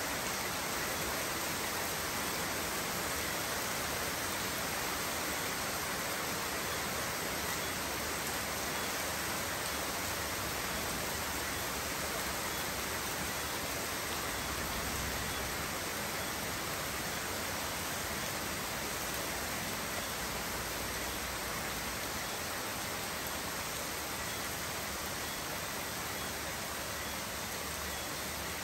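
Steady rain falling: an even hiss that holds without breaks.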